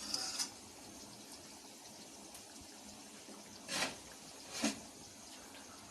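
Paneer masala gravy simmering in a pan on the stove, a steady soft bubbling hiss. There is a short noise right at the start and two brief ones about four and four and a half seconds in.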